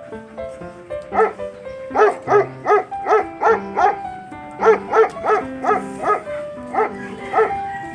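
A dog barking in quick runs of short, sharp barks, about three a second, with a short pause midway. Background music plays under it.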